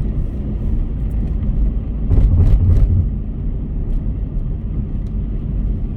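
Steady low rumble of a car driving on the road, with road and engine noise. It grows louder for about a second, with a few short knocks, around two seconds in.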